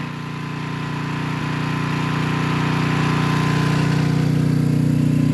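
Generator engine running steadily, gradually growing louder.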